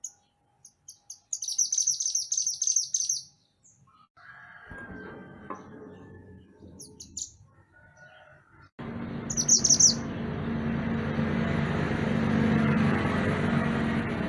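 A songbird, the mantenan gunung, gives short high chirps and then a rapid twittering trill of about two seconds. A few more calls follow. About nine seconds in, a loud steady rumble with a low hum starts suddenly and runs on under the last calls.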